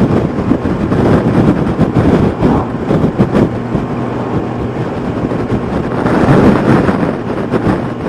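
Wind rushing and buffeting over the microphone of a moving motorcycle, with the Yamaha FJR1300's inline-four engine running steadily underneath.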